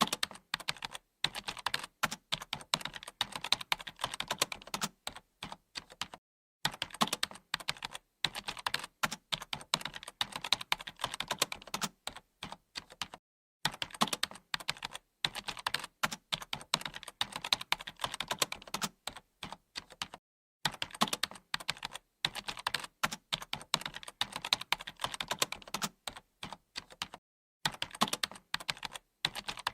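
Typing on a computer keyboard: rapid, uneven runs of key clicks, broken by brief pauses every few seconds.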